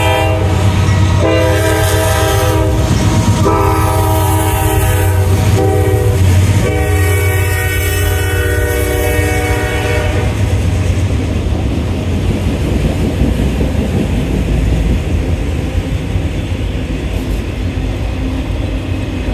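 Norfolk Southern diesel locomotive's air horn blowing for a grade crossing: several blasts, the last held longest, stopping about ten seconds in. After that, the steady rumble and clatter of autorack freight cars rolling past.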